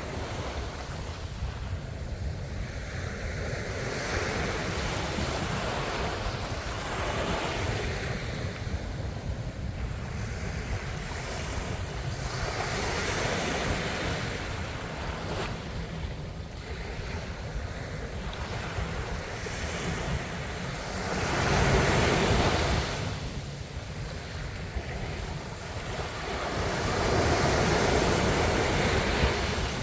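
Ocean waves breaking and washing onto the shore in repeated swells over a steady low rumble, the two strongest surges about two-thirds through and near the end.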